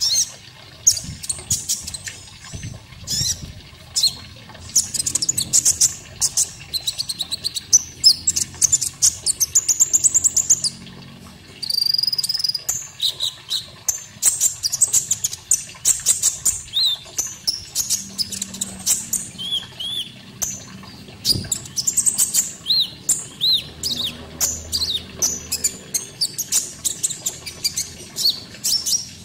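Konin bird singing: a long, busy run of short, high chirps and whistled notes, with fast trills and quick downward-sweeping calls.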